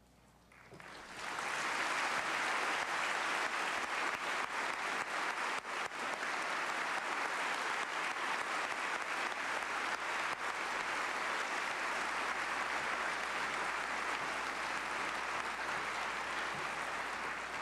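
Congregation applauding at the close of a eulogy, a steady wash of many hands clapping. It swells up over the first second or two, holds, and begins to fade near the end.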